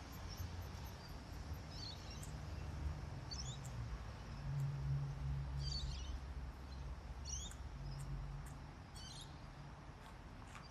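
A small bird calling with short, high, falling chirps, about one every second or two, over a steady low outdoor rumble.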